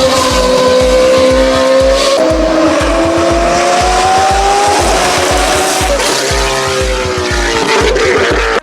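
Alfa Romeo 4C sports car being driven hard, its engine note and squealing tyres gliding slowly up and down in pitch, over background music with a steady thumping beat.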